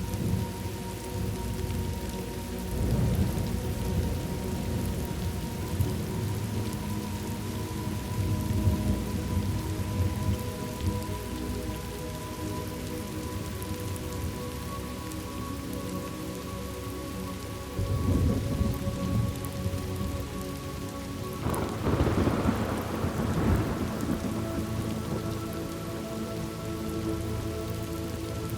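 Thunderstorm ambience: steady rain falling with several rolling rumbles of thunder, the loudest starting suddenly about three quarters of the way through.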